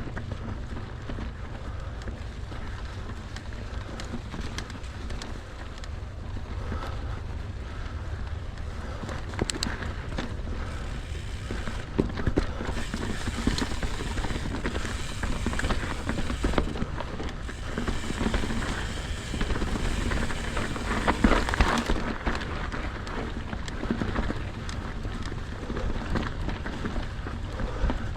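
Mountain bike riding over a frozen dirt trail: tyres rolling and crunching over hard ground, with the chain and frame rattling and clattering over bumps and wind rumbling on the microphone. The ride gets rougher and louder from about halfway through, with denser knocks, then eases near the end.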